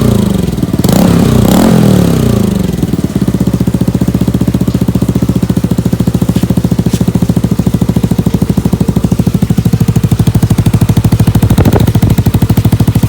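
Yamaha NMAX 155 single-cylinder scooter engine exhaling through an Akrapovic slip-on muffler with its silencer insert fitted. The throttle is blipped a few times, rising and falling, in the first two seconds or so. The engine then settles into a steady idle with an even pulse.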